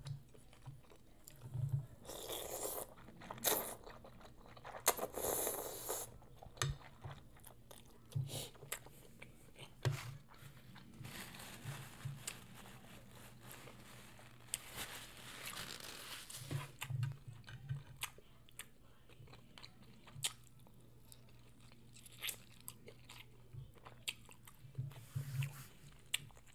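Close-miked eating of birria ramen: chewing and biting with irregular wet clicks, and a few noisy stretches of about a second each.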